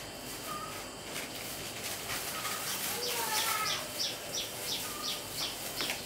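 Bird calling outdoors: a run of about nine short, high chirps, roughly three a second, through the second half, with a few softer single notes and a brief wavering cry about three seconds in.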